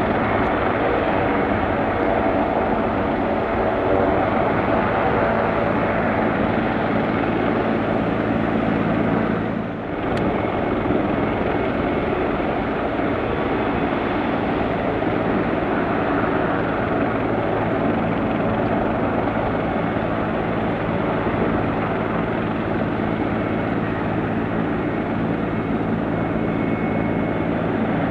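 Piaggio P.180 Avanti's turboprop engine running steadily on the ground, a continuous hum with a steady low drone under it, dipping briefly about ten seconds in.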